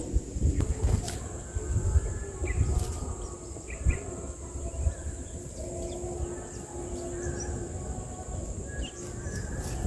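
Outdoor rumble with irregular low knocks, over which faint, short, high bird chirps come and go.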